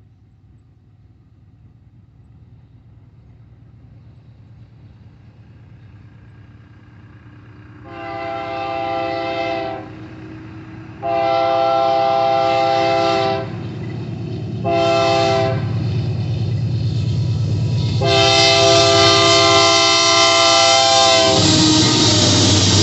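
A train approaching with a low rumble that grows steadily, its multi-tone horn sounding four blasts: long, long, short, long. Near the end the rumble of the passing train becomes the loudest sound.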